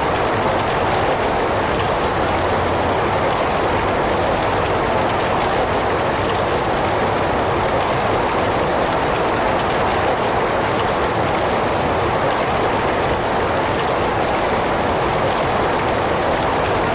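Heavy rain falling in a steady, even downpour, with no let-up or change.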